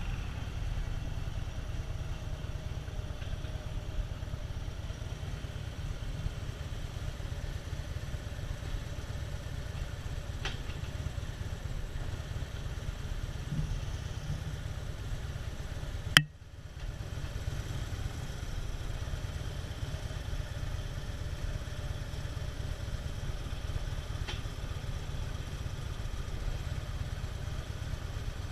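Harley-Davidson V-twin motorcycle engine running steadily, a continuous low rumble. A single sharp click comes just past halfway, and the sound drops briefly after it.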